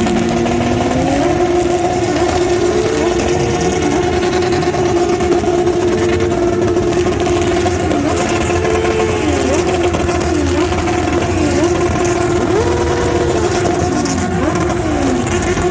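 Motorcycle engines at high revs, one held at a steady pitch throughout while others rev up and down around it.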